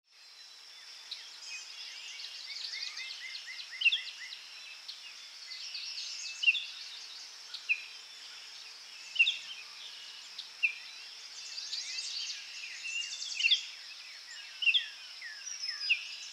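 Several songbirds calling together: short sharp chirps and quick downward-sliding whistles, with one bird giving a run of about eight evenly spaced notes a couple of seconds in, all over a steady high hiss.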